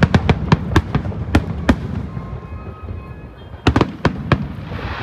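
Aerial fireworks shells bursting: a rapid run of sharp bangs in the first two seconds, a quieter gap, then another quick cluster of bangs about four seconds in, with a hiss spreading near the end over a steady low rumble.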